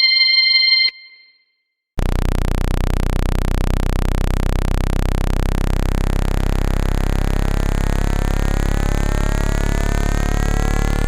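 Generated speaker-cleaning tones for shaking water and dust out of a phone earpiece: an electronic beep ends about a second in, and after a second of silence a loud, steady low buzzing tone begins, with rising whistle-like pitch sweeps layered over it from about halfway through.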